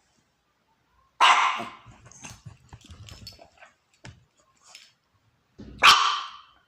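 A puppy barking twice, two short sharp barks about four and a half seconds apart, the first about a second in and the second near the end, with faint small sounds between them.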